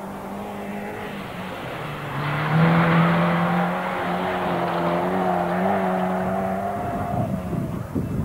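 Rally car engine running hard as the car passes close by, loudest two to three seconds in, then fading away. Wind buffets the microphone near the end.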